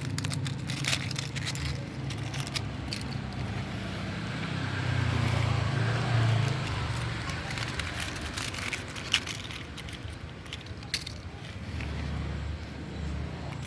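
Dried leaves crackling and crunching in scattered sharp snaps, over a steady low rumble.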